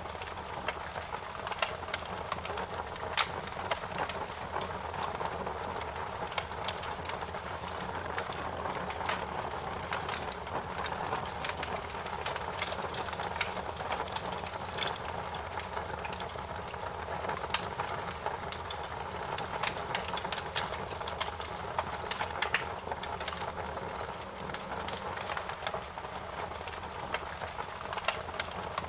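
Fire crackling: irregular sharp pops and snaps, several a second, over a steady hiss and low rumble.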